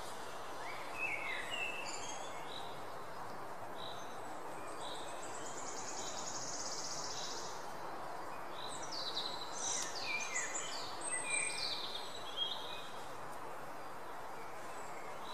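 Birds chirping and calling over a steady hiss of outdoor background noise. There is a high buzzy trill near the middle and a flurry of chirps in the second half.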